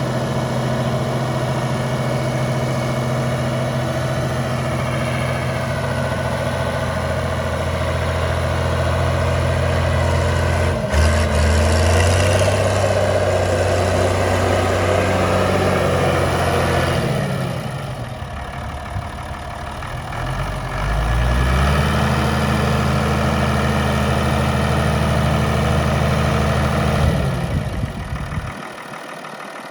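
Ford 8210 tractor's six-cylinder diesel engine running steadily while harrowing. Past the middle the revs drop and then climb back up, and near the end the engine's low note falls away and it goes quieter.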